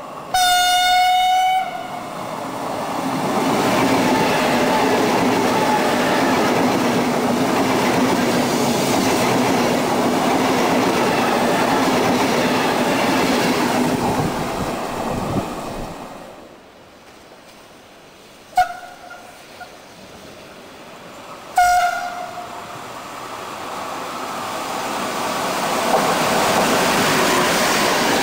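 Italian electric passenger trains passing through a station at reduced speed. A single horn blast sounds as a silver high-speed train approaches, then its steady rolling rush lasts about fourteen seconds. After a quieter spell, two short horn blasts sound, then a locomotive-hauled passenger train rolls through with its coaches clattering.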